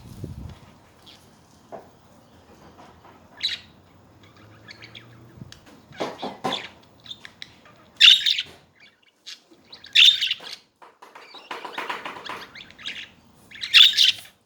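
Budgerigars chirping and chattering: scattered soft chirps at first, then loud, short chirp calls about every two seconds in the second half.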